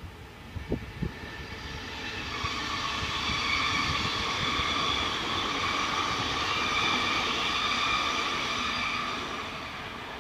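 An NS VIRM double-deck electric intercity train passing over a level crossing. Its noise builds from about two seconds in, holds steady with several high tones over it, and fades near the end. Two short low thumps come about a second in.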